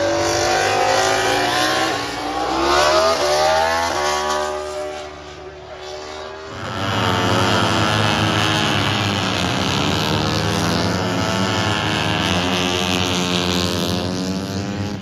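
Racing motorcycle engine accelerating hard, its pitch rising and stepping down at each gear change over the first few seconds. After a brief dip it runs on steadily at high revs, the pitch wavering.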